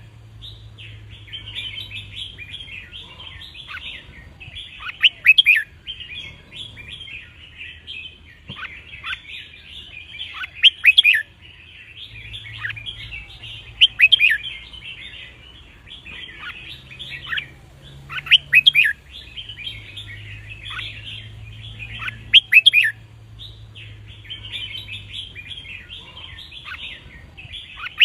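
Red-whiskered bulbuls singing: loud, short whistled song phrases about every three to four seconds over steady twittering and chatter.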